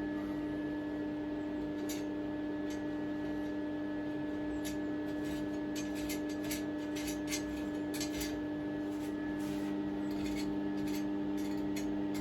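A steady hum with several pitched tones, with scattered light clicks and rubbing.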